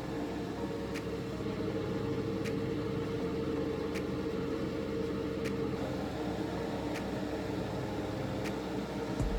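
Steady machine hum with a faint sharp tick about every one and a half seconds.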